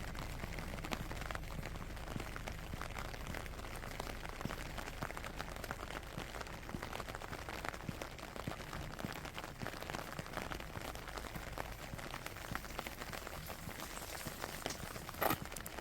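Steady rain, with many small drop impacts ticking over a soft hiss. A brief, louder sharp sound stands out near the end.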